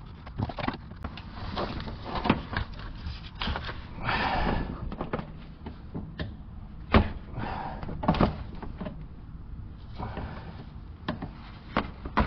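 Hand work on a car's plastic underbody panel and its push-in plastic rivets: scattered clicks and knocks with a few short scraping rustles, the sharpest knock about seven seconds in.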